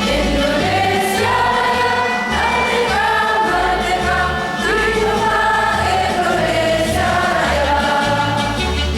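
Mixed choir singing a song in held notes, over a low bass accompaniment that changes note about every half second to a second.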